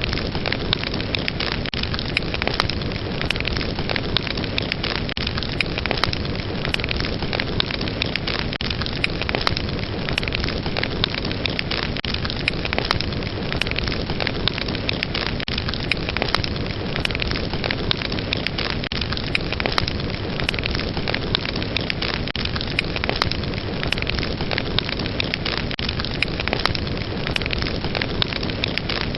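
Fire burning steadily in a fireplace, a constant rushing noise with many sharp crackles and pops scattered throughout.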